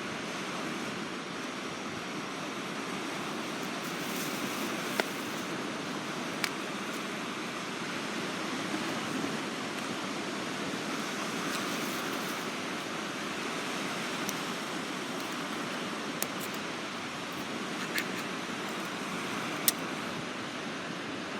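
Steady wash of waves on the shore, with a handful of sharp, scattered pops from a small wood fire crackling.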